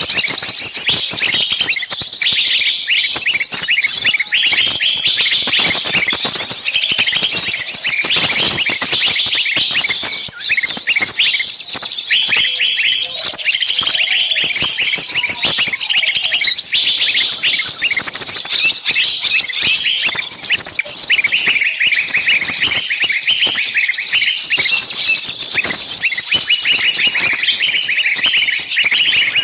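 A dense, noisy chorus of many small songbirds calling and chirping rapidly and without pause: a bird-lure recording of agitated, screaming calls as if from birds caught in a trap, used to draw in small birds.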